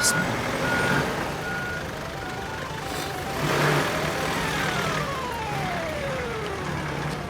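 A vehicle reversing alarm beeping at a steady even rate, which stops about three seconds in. A slow falling tone follows near the end, over a low rumble.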